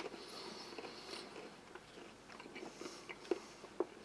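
A person chewing a bite of very hard caraway-seed hardtack biscuit spread with blackcurrant jam: faint, irregular crunching, with a couple of sharper cracks near the end.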